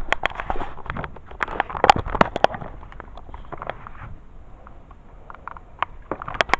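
Irregular clicks and knocks, densest in the first two and a half seconds and thinning out after that.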